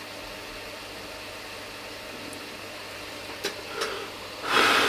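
Anet A8 3D printer's cooling fans running with a steady hum after a print, with a couple of faint clicks and a short scraping rustle near the end as the hot print is handled on the bed.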